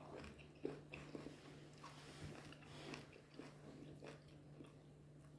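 Faint, scattered chewing and mouth smacks of someone eating fufu with goat meat soup, over a steady low hum.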